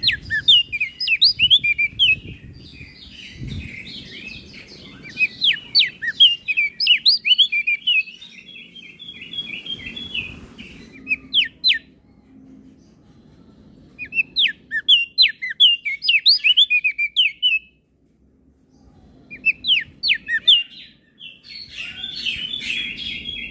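Crested white-eye (opior jambul) singing: fast, twittering runs of high chirps in four bursts with short pauses between them.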